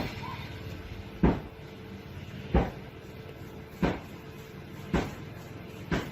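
A series of six sharp knocks, a little over a second apart, over a faint steady hum.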